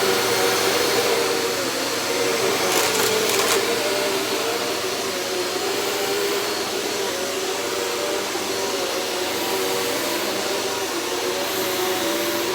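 Hoover Elite Rewind upright vacuum cleaner running steadily, its motor drone mixed with the brush roll spinning, with a brief high rattle of clicks about three seconds in. The machine has just been cleaned out and its clogged hose cleared, and it sounds better for it.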